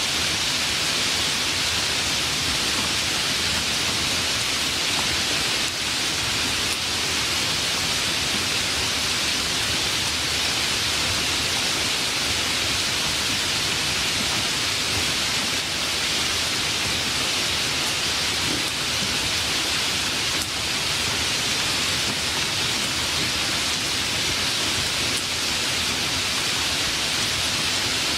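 Steady heavy rain, a dense even hiss with no break or swell.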